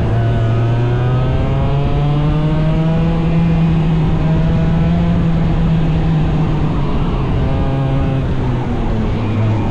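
A small 100cc racing engine running hard. Its pitch rises over the first few seconds, holds, drops back around seven to nine seconds in, then climbs again near the end.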